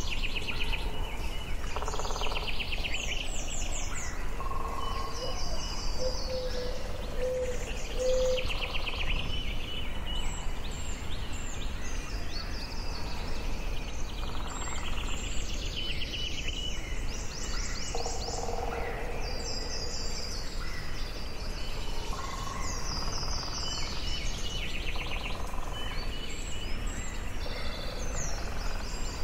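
Forest birdsong: several birds singing short, repeated trilled phrases and chirps throughout, with a few lower whistled notes, over a steady low background rumble.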